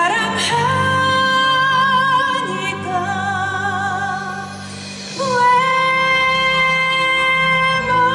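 Musical-theatre song: a singer holds long notes with vibrato over instrumental accompaniment, dipping briefly before a new held note enters about five seconds in.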